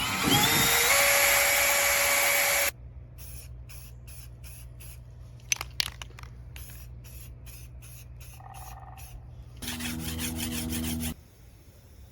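A power tool spins up and runs with a loud hiss for about two and a half seconds, then stops suddenly. Quieter ticking follows, then a second, shorter burst near the end.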